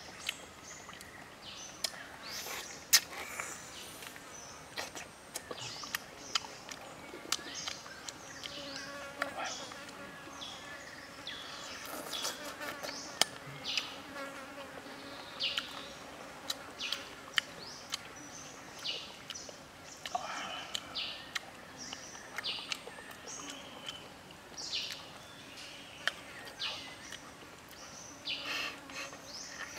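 Close-up eating of grilled squid: irregular wet mouth clicks, smacks and bites as it is chewed, with an insect buzzing near the microphone at times.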